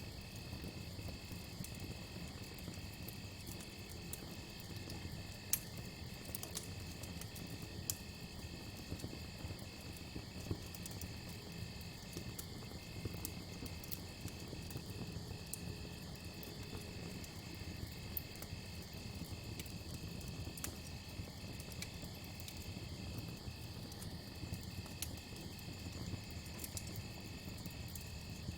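Crackling campfire with scattered sharp pops over a steady low rumble. A cricket trills steadily throughout, the trill breaking briefly about once a second.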